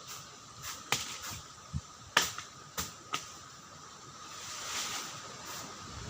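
A handful of sharp snaps or clicks at irregular intervals, the loudest about two seconds in, over a faint steady high tone.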